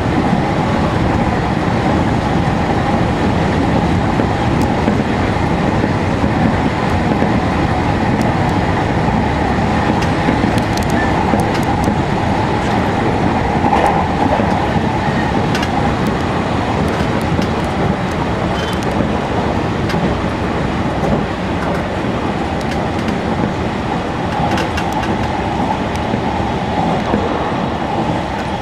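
Electric commuter train running at speed, heard from inside the front car: a steady rumble of wheels on rail with a steady hum and occasional faint clicks.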